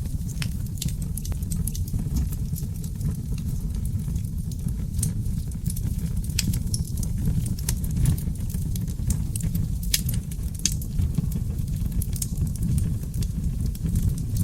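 Wood fire of oak logs burning in a fireplace: a steady low rumble of flames with frequent irregular crackles and sharp pops.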